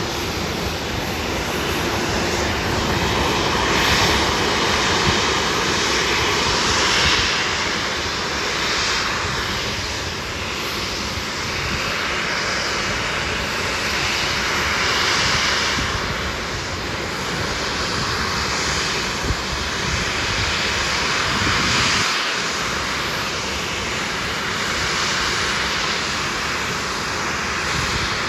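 Boeing 737-700's CFM56 jet engines running at taxi idle as the airliner taxis in to its gate: a steady rushing noise with a faint, wavering high whine.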